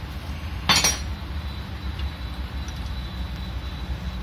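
A single sharp metallic clink of a spanner against metal, about three-quarters of a second in, over a steady low rumble in the background.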